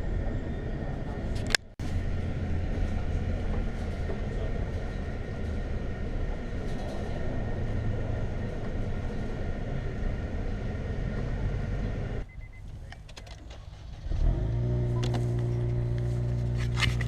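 Car on the move: steady engine and road rumble, broken by a brief dropout near the start and a quieter stretch later, after which a steady engine hum sets in.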